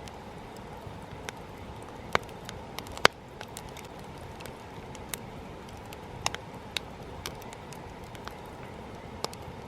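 Wood campfire crackling: scattered sharp pops and snaps over a steady rush, the loudest pop about three seconds in.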